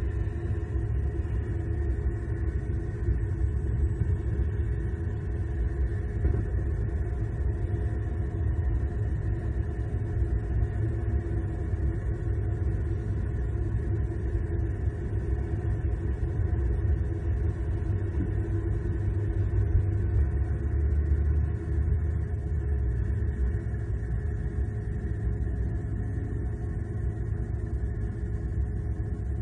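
Steady low outdoor rumble picked up by the nest camera's microphone, swelling slightly about two-thirds of the way through, with no distinct bird calls.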